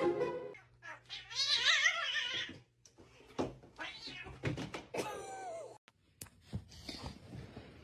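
A domestic cat yowling in a long, wavering call, followed by a few sharp thuds and then a shorter meow that falls in pitch.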